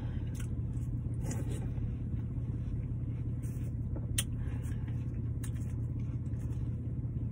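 Wet chewing and smacking of juicy watermelon, with a few sharp mouth clicks, over a steady low car rumble.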